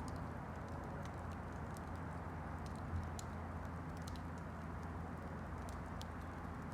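Wood campfire crackling: scattered small snaps and pops over a steady low rumble, with one louder pop about three seconds in.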